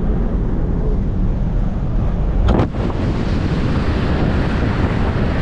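Strong wind buffeting the microphone over the rush of ocean surf, with a brief knock about two and a half seconds in.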